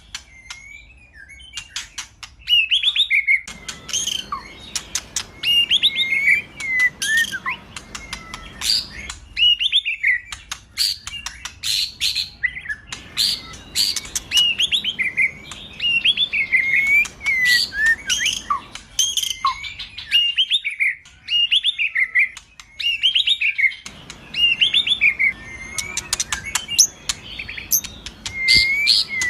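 Male white-rumped shama (murai batu) singing: loud, varied whistled phrases that glide up and down, interspersed with rapid sharp ticking and clicking notes, delivered in bursts of a few seconds with brief pauses between them.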